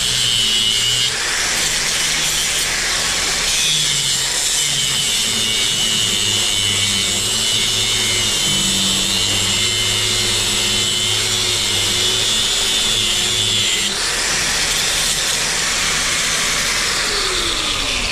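Electric drill running under load, boring a hole through a wood-and-steel beam, with a steady high squeal; near the end the motor winds down in pitch as it stops.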